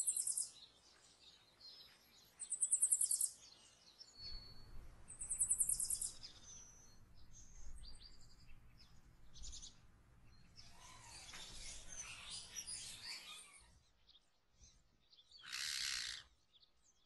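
Birds chirping and calling: a high, rapid trill repeated about every three seconds for the first several seconds, with short whistled notes between, then a hissy stretch in the middle and a brief louder call near the end.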